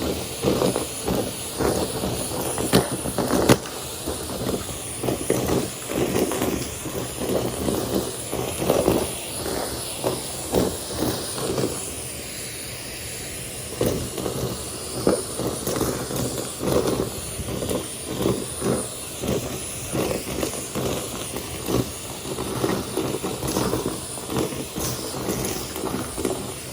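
Numatic Henry cylinder vacuum cleaner running steadily with a high motor whine and hiss of air, sucking up fluff and debris, with irregular surges of rustle and rattle as the floor tool is worked back and forth over the mess.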